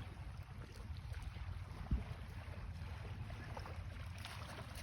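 Wind buffeting the microphone in a steady low rumble over faint lapping water, with a single thump about two seconds in.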